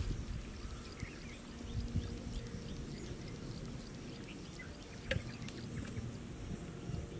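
Outdoor ambience: scattered faint bird chirps over a steady low rumble, with one sharp knock about five seconds in.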